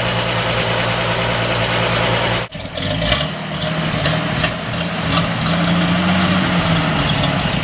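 Chevrolet 235 cubic-inch inline-six truck engine idling steadily, freshly rebuilt head, at a somewhat high idle. The sound drops out abruptly for an instant about two and a half seconds in, then the idle carries on with a few light clicks.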